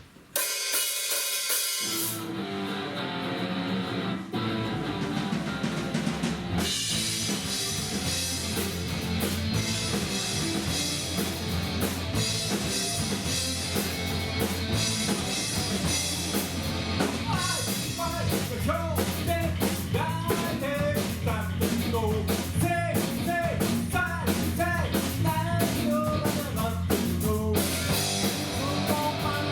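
Rock band playing a song with a drum kit, guitar and bass, starting abruptly. A wavering melody line joins about halfway through.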